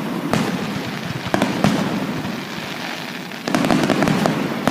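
Aerial fireworks bursting: a few separate bangs over a steady rumble, then a louder run of rapid crackling reports starting about three and a half seconds in.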